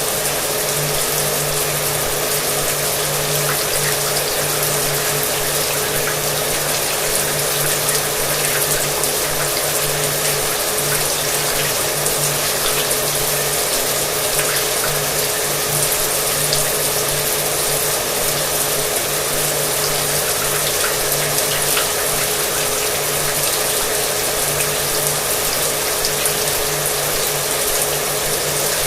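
Shower water running with a hair dryer running behind it: a steady hiss of spray with the dryer motor's constant hum underneath, unchanging throughout.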